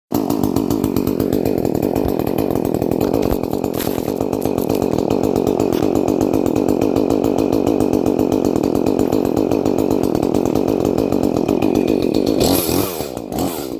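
Two-stroke chainsaw running at high revs. Near the end the throttle is let off and the engine note falls away.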